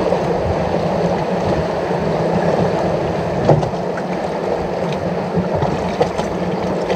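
Steady wash of sea water against shore rocks, with a couple of faint clicks.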